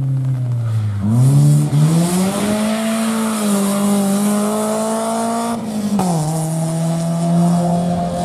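Rally car engine working hard: the revs dip, then pick up sharply about a second in and hold high. They drop briefly near six seconds, as at a gear change, then hold steady again.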